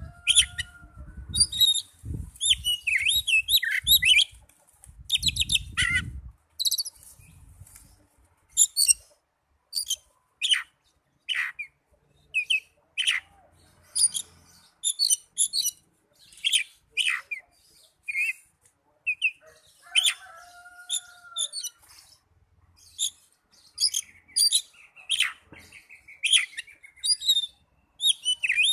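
Oriental magpie-robin (kacer) singing: a varied, rapid run of short sharp chirps and down-slurred whistles, broken by a couple of longer clear whistled notes. Low muffled bumps sound under the song in the first six seconds or so.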